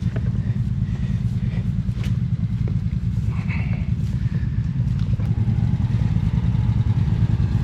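ATV engine running steadily with an even, low rumble.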